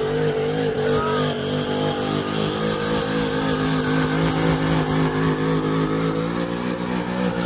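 Car engine held at high, steady revs, its pitch wavering only slightly.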